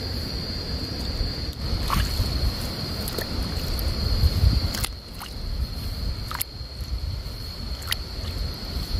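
Wind rumbling on the microphone under a steady high-pitched whine, with a few sharp snaps or cracks scattered through.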